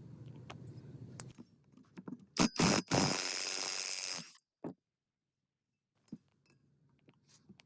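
Workshop handling sounds: a few clicks and knocks, then a loud hiss lasting about two seconds that cuts off abruptly.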